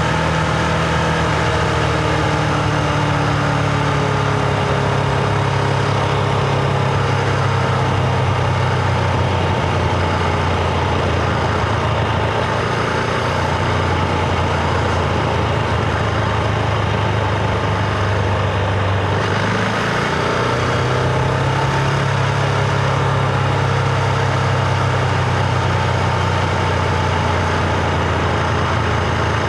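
Husqvarna Vitpilen 701's single-cylinder engine pulling the bike along at steady revs, heard from on board over a constant rushing noise. About two-thirds of the way through the revs drop briefly and then climb again.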